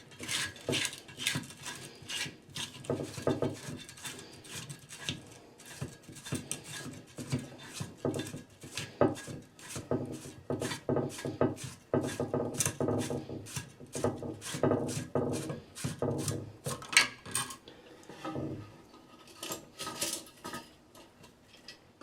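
Hands working a toilet tank's plastic fittings loose: a long run of rubbing, scraping and clicking, thinning to a few clicks near the end.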